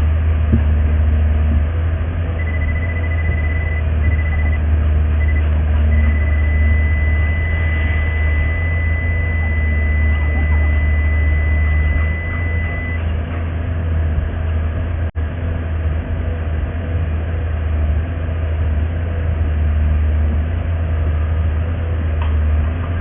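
Steady low engine and road rumble heard from inside a car. From about two seconds in, a high electronic warning beep sounds in short broken stretches, then holds as one continuous tone for about seven seconds before stopping.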